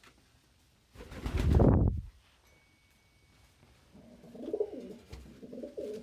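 Domestic pigeon cooing in a low, rolling run that starts about four seconds in. About a second in, a loud rushing burst lasts about a second.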